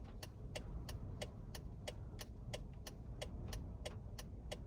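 Car turn-signal or hazard flasher ticking steadily, about three clicks a second in alternating tick-tock pairs, over a low steady rumble inside the car's cabin.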